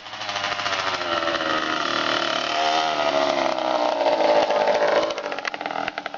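Dirt bike engine running, its pitch rising and falling as the throttle is worked, loudest about four seconds in, then dropping back to a lower, choppier note near the end.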